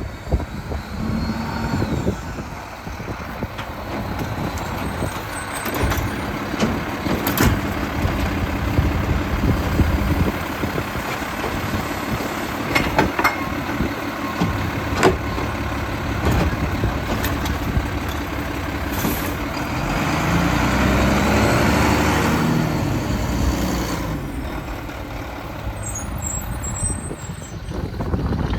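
Mack LEU garbage truck with a Bridgeport rear-loader body running while packing trash: the engine speeds up for a few seconds in the second half as the packer blade cycles, then settles back, with several sharp clanks and hisses along the way.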